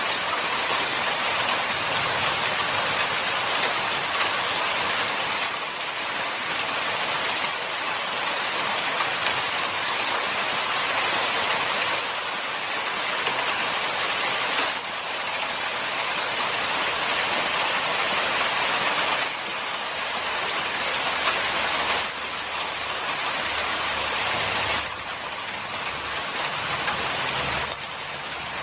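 A steady, even hiss like heavy rain, broken by brief high clicks every two to three seconds.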